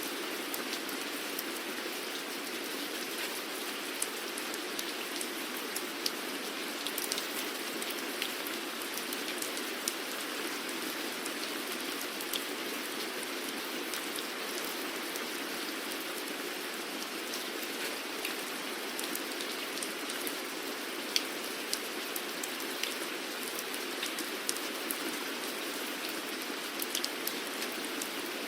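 Steady rain falling, a constant hiss with individual drops ticking sharply on a nearby surface every so often.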